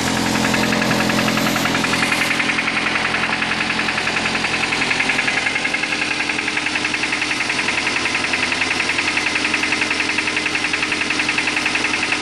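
Suzuki Aerio four-cylinder engine running with a fast, steady, even knocking: rod knock, the sign of a failed connecting-rod bearing or a thrown rod.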